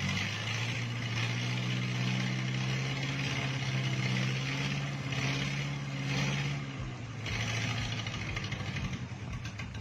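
Rebuilt Toyota engine running with a steady hum. The note breaks up and changes about seven seconds in.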